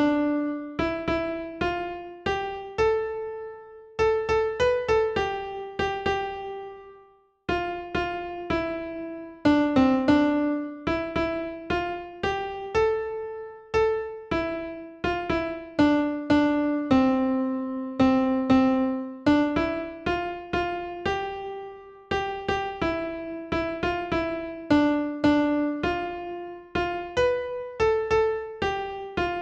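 Solo keyboard music in a piano or electric-piano tone: a simple melody of single struck notes, each fading after it sounds, with a short break about seven seconds in.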